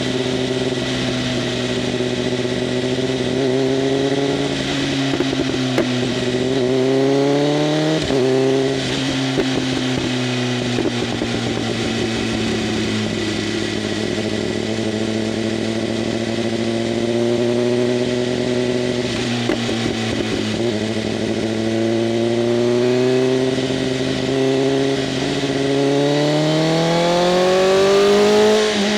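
BMW M1000RR's inline-four engine running through an SC-Project CRT exhaust with its flaps open, held at fairly steady revs. The revs climb and then drop sharply about a quarter of the way in, and do so again near the end.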